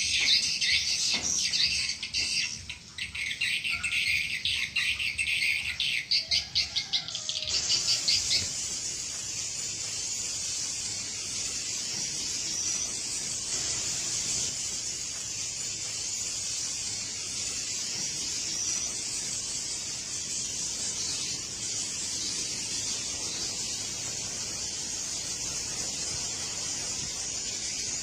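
Swiftlets twittering in fast, rapidly pulsing high chirps. After about seven and a half seconds this gives way to a steady, dense high chorus of calls.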